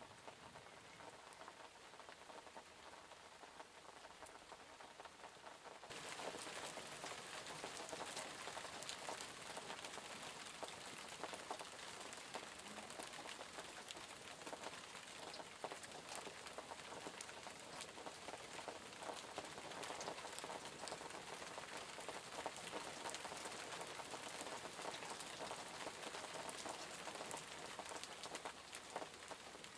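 Rain falling on a surface, a steady patter of many drops. About six seconds in it suddenly becomes heavier and louder, and it stays that way.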